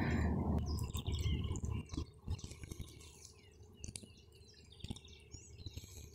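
Many small birds chirping and twittering, with a few faint knocks.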